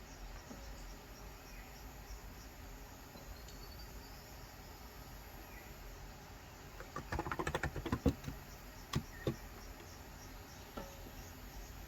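Typing on a COX Endeavour electro-capacitive keyboard with 35 g switches: a quick run of keystrokes about seven seconds in, then a few single keystrokes. Faint bird chirps in the background before the typing.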